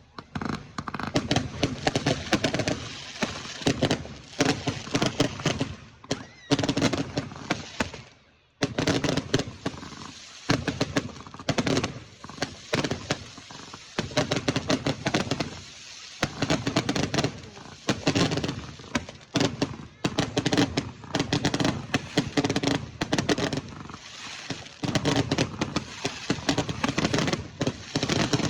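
Fireworks going off: repeated clusters of rapid bangs and crackling, each lasting a second or two, with short pauses between them.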